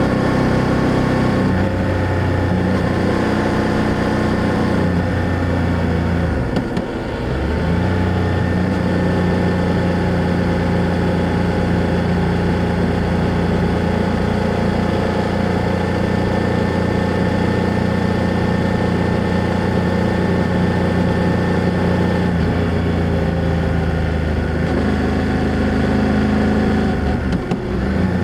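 BMW F800GS parallel-twin motorcycle engine and exhaust running steadily under way. The engine note briefly drops about seven seconds in and again near the end.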